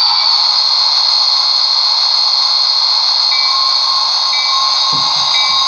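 Model diesel locomotive's DCC sound decoder playing a steady hissing running sound. About three seconds in, its bell starts ringing about once a second.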